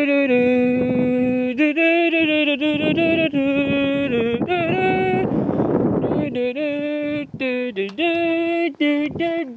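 A voice singing a wordless 'do do do' tune in held notes, stepping from one pitch to the next, with a short rushing noise breaking in about five and a half seconds in.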